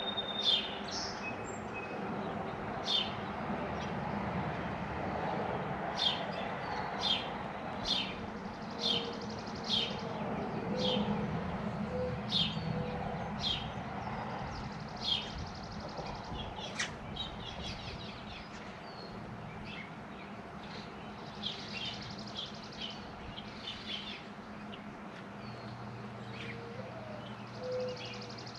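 A songbird chirping repeatedly: short, sharp high chirps about once a second for the first half, growing sparser later, over a steady low background hum. A few soft low hoots come in the middle and again near the end.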